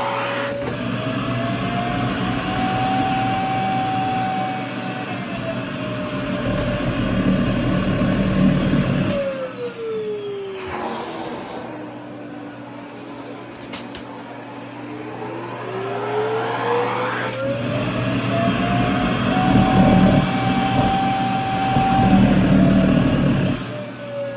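Vacuum cleaner running with a rushing suction noise over its motor whine. About ten seconds in the whine drops in pitch and the rush fades, and a few seconds later both climb back up. There is one sharp click in the middle of the low stretch.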